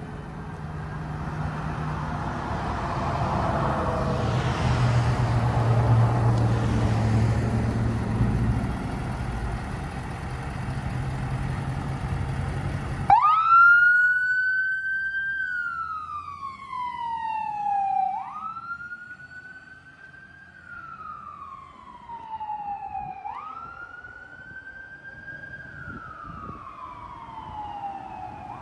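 Fire engine responding with its siren on. The truck's engine and road noise swell as it passes close. Then the sound changes abruptly to a siren wailing in slow cycles, each rising quickly and falling over about five seconds.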